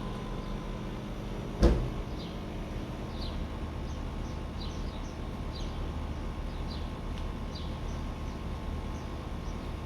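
Outdoor ambience: a small bird repeatedly giving short, high, falling chirps over a steady low hum, with a single sharp knock about one and a half seconds in.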